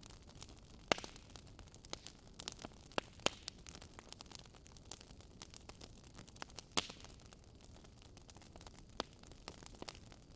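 Wood fire crackling, with a faint steady hiss and irregular sharp pops, the loudest about a second in, around three seconds in and near seven seconds.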